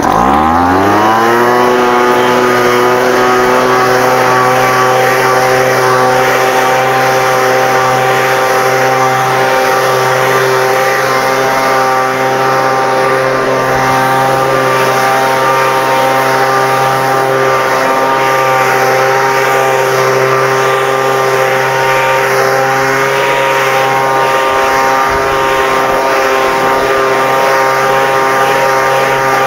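Exmark lawn mower's engine revving up to full throttle in about the first second, then running steadily at speed.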